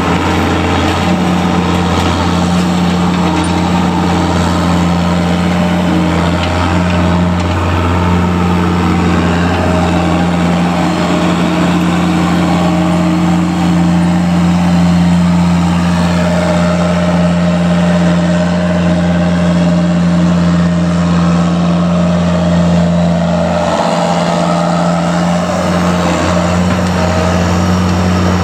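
A large vehicle engine running steadily at an even speed.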